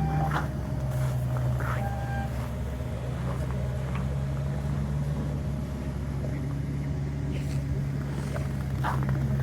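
1995 Lincoln Town Car's 4.6-litre V8 running at a steady idle soon after a cold start in deep cold, with a few faint clicks over it.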